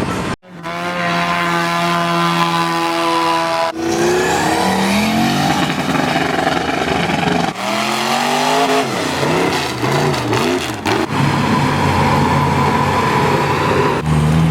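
Mud-bogging truck engines running loud and revving hard, the pitch climbing and wavering as the throttle is worked, in several short segments joined by abrupt cuts.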